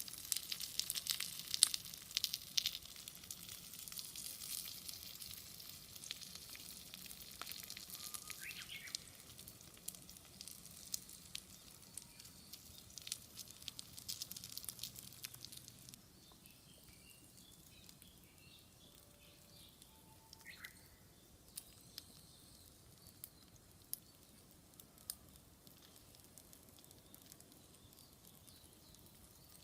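Gyoza sizzling in an iron skillet over a wood fire, with the fire crackling and sharp pops. About halfway through the sizzling drops away, leaving a quiet garden where a bird chirps now and then.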